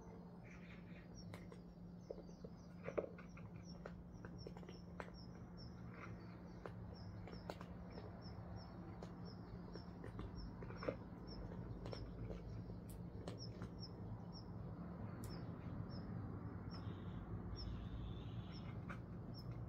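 A small bird repeating a short high chirp about twice a second, over faint scattered clicks and crunches from cats eating.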